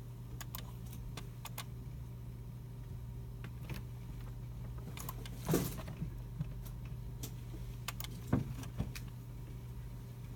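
Computer-room ambience: scattered mouse clicks and keyboard keystrokes over a steady low hum, with a louder knock about halfway through and another sharp one a few seconds later.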